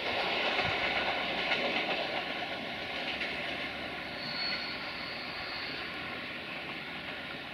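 A passenger train running away into the distance: its coaches roll over the rails and the Sulzer diesel engine of its 060-DA (LDE2100) locomotive drones, the whole sound fading steadily.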